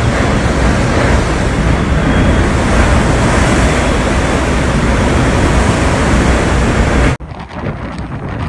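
Stormy sea surf with strong wind blowing on the microphone, a loud, steady rush of noise. It cuts off abruptly about seven seconds in, giving way to a quieter, uneven noise.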